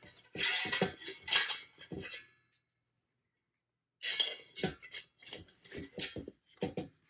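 Irregular bursts of sharp metallic clinking and jingling strikes, breaking off completely for about a second and a half midway.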